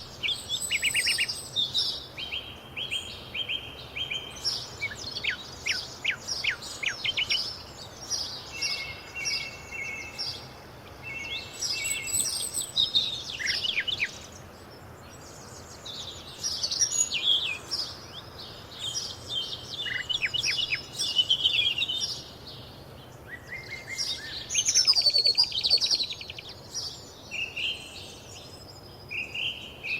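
Several songbirds singing and calling together: quick chirps, rapid trills and short whistled phrases overlapping in bouts, with brief lulls.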